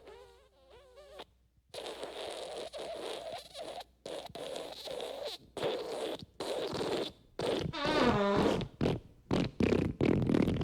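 A rapid string of fart sound effects with short gaps between them: a wavering, pitched one at the start, then rasping ones, and one about eight seconds in that falls in pitch.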